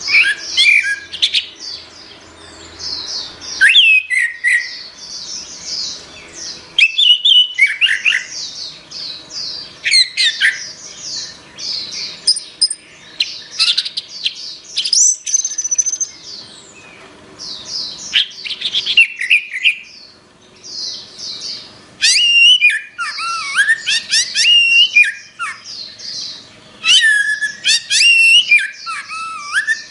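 Orange-headed thrush singing loudly: a continuous run of rapid, varied phrases with quick pitch sweeps and trills, broken by brief pauses.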